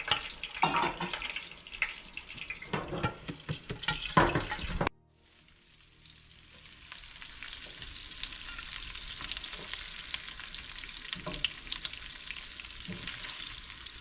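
Shrimp sautéing in hot oil in a frying pan, with a utensil scraping and stirring in irregular strokes. About five seconds in the sound cuts off suddenly, then a steady sizzle of hot oil builds up and holds, with a few light knocks.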